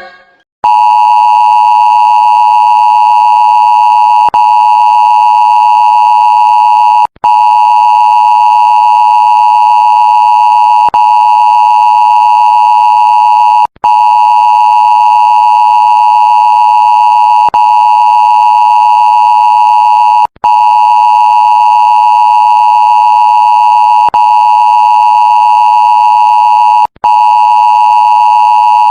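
Loud, steady electronic alert tone of the Emergency Alert System attention-signal kind, starting about half a second in. It holds one unbroken pitch, with short breaks every three to four seconds.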